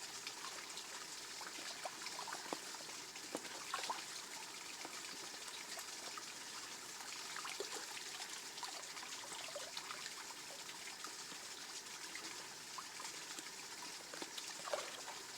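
A small waterfall in a rice-field channel trickling steadily, with scattered small splashes and drips.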